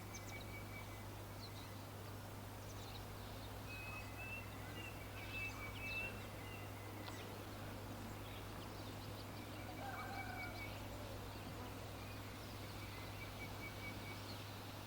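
Birds calling faintly outdoors: short, high, pulsing trills that come and go, with a brief lower call about ten seconds in, over a steady low hum.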